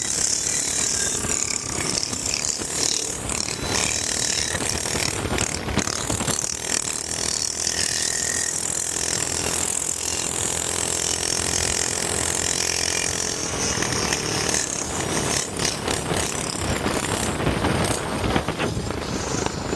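Minibike's small engine running steadily with a loud mechanical rattle.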